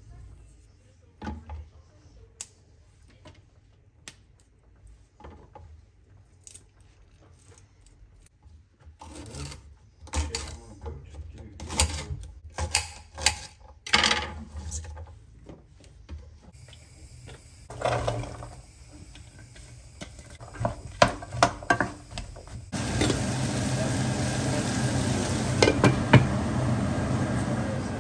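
Kitchen utensils and dishes clinking and knocking, sparse at first and then in a busy run of clatter. About two-thirds of the way through, a steady rushing noise starts and carries on under further knocks.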